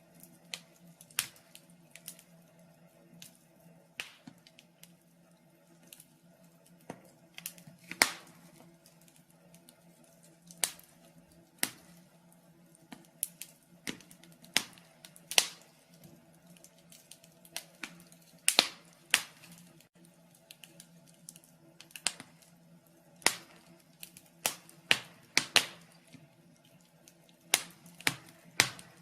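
Wood fire in a fireplace crackling, with irregular sharp pops every second or so and several louder snaps, over a faint steady hum.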